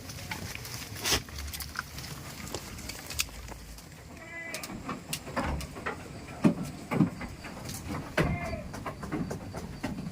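Goats bleating: two short calls, about four seconds in and again near the eight-second mark, among scattered knocks and clicks.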